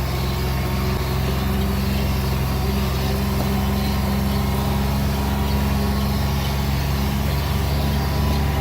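A motor vehicle's engine running steadily, with a low, even drone.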